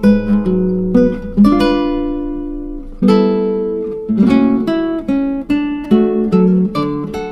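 Background music of plucked acoustic guitar, notes and chords picked and left to ring, with a fresh strum about three seconds in.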